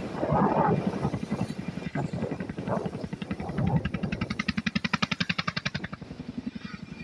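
Helicopter rotor blades chopping in a rapid, steady beat, with a pulsing high whine that swells for a couple of seconds past the middle and then fades.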